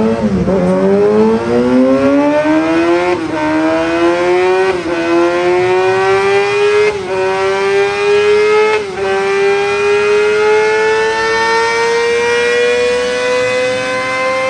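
Sportbike engine at full throttle, accelerating hard through the gears. Its pitch climbs steadily and dips briefly at four quick upshifts.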